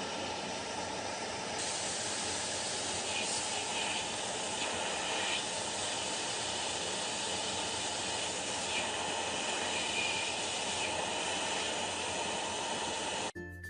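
Steady hissing noise, even throughout, with faint brief flickers in it; it cuts off suddenly near the end as chiming music begins.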